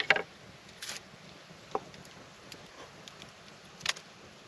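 A few scattered sharp clicks and knocks from handling camp cooking gear and food, the loudest right at the start, over a faint steady hiss.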